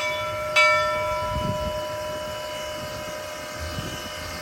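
A train's bell struck once about half a second in, its ring slowly dying away.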